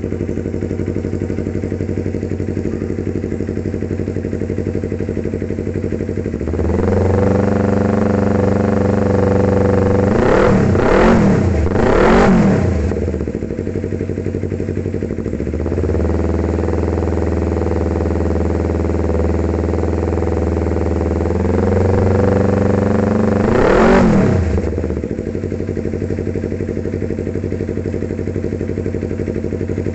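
Yamaha R25 parallel-twin engine through an SC Project aftermarket exhaust, idling, then brought up to a steady higher speed twice with quick revs that rise and fall: several around the middle and one near the end, dropping back to idle after each. The exhaust note is loud and aggressive.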